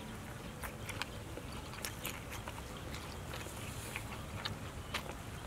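A person biting into and chewing grilled rat meat, with scattered small clicks and crunches over a low steady rumble.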